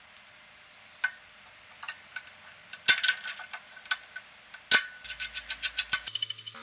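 Sharp metal clinks and knocks, the loudest two leaving a short ringing tone, then a quick run of clicks that speeds up near the end.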